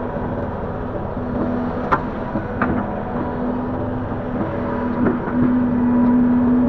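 Link-Belt 145X3E hydraulic excavator working, its engine a steady drone with a strong hum that breaks off and returns several times. Sharp knocks come about two seconds in and again near five seconds.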